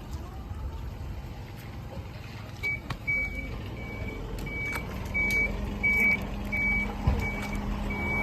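A low engine runs steadily. From about three seconds in, a high electronic beep repeats a little under twice a second, like a reversing alarm.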